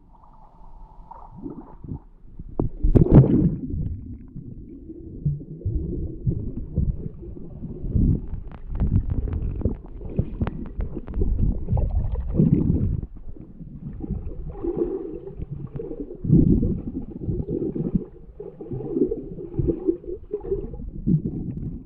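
Water in a swimming pool heard through an underwater camera: muffled low rumbling and gurgling from a swimmer moving through the water, swelling and fading repeatedly, loudest about three seconds in.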